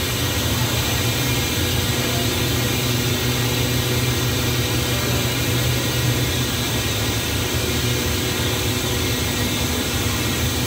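Stopped passenger train's machinery running at a steady idle, an even low hum with hiss over it and no change.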